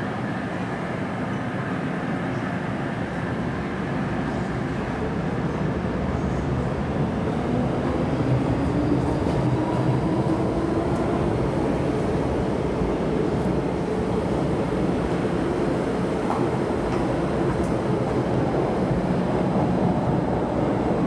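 MTR metro train running through an underground station platform without stopping, a continuous rumble that grows slightly louder about six seconds in, with a faint rising motor whine a few seconds later.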